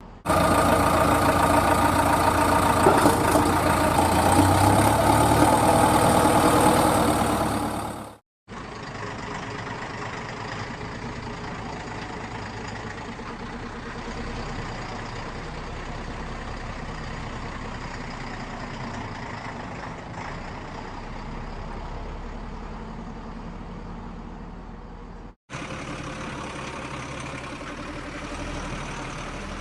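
A vehicle's engine running steadily, in three separate clips cut together; the first clip is much louder than the other two.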